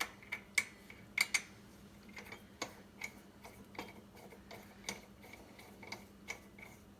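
Light, irregular metallic ticks and clicks, about one or two a second and loudest in the first second and a half, as a small screw knob is fitted and threaded onto a steel-plate hand grain grinder.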